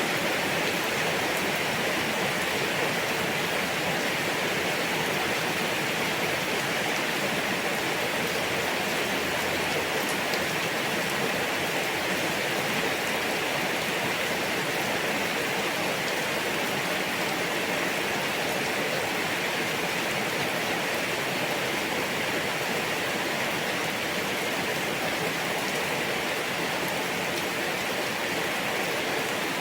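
Steady rain falling: an even, unbroken hiss with no change in strength.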